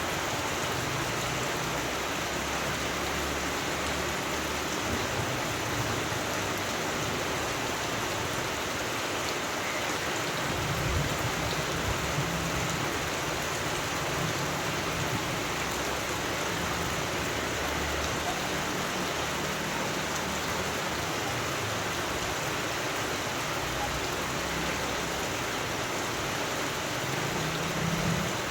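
Steady rain falling, an even hiss of drops on surfaces, with a couple of brief low rumbles underneath, one about a third of the way in and one near the end.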